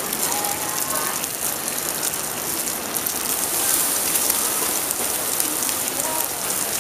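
Steady sizzle of small shrimp-topped rice-flour pancakes (bánh khọt) frying in oil in a cast-iron multi-well pan.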